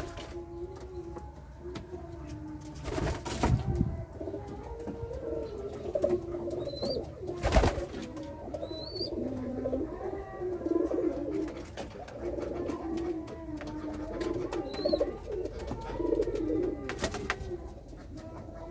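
Domestic pigeons cooing over and over, with a few loud sharp knocks and some faint, short rising chirps.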